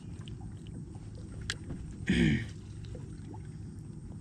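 Handling noise in a kayak while a deeply hooked bass is being unhooked: a low steady rumble with scattered light clicks and knocks. About two seconds in there is a short grunt-like vocal sound that falls in pitch.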